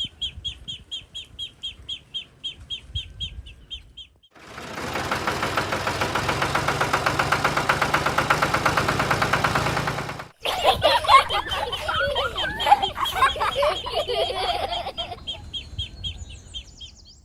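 Bird chirping in quick repeated notes, about five a second, broken for about six seconds by a steady, fast-pulsing buzz. After the buzz cuts off abruptly, a burst of varied warbling bird calls follows, and the quick chirps return near the end.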